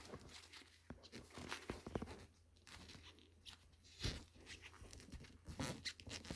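Faint, irregular clicks and rustling of parts and wires being handled by hand during the heater repair.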